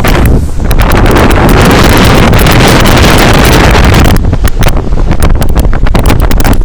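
Strong wind buffeting the microphone on the roof of a moving bus: a loud, rushing roar full of rapid crackling gusts. It is thickest for the first four seconds or so, then thins into choppier buffeting.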